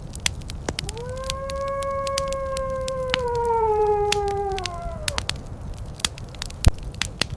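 Wood fire crackling with frequent sharp pops, and a wolf howling once: one long call that begins about a second in, holds its pitch, then slides down and fades out about five seconds in.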